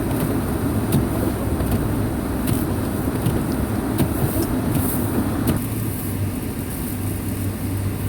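A 2002 Subaru Impreza wagon driving through snow: the 2.5-litre flat-four engine running under steady road and snow noise, with a low hum. About five and a half seconds in, the higher part of the noise drops away and the car goes on more quietly.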